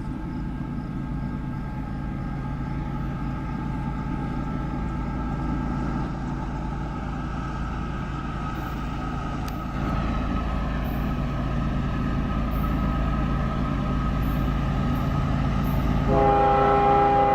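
Diesel freight locomotives approaching, their engines running with a steady drone that grows louder. About sixteen seconds in, a locomotive air horn sounds a loud chord of several tones.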